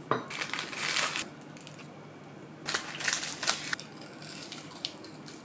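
Crunching of a breaded, deep-fried ham-and-cheese cutlet being bitten and chewed, in two bouts about two seconds apart.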